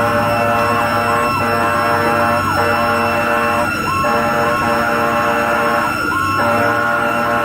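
Fire truck's electronic siren in rapid yelp, sweeping up and down about three times a second, loud over a steady high whine and the truck's low engine hum, with a few brief downward swoops in the pattern.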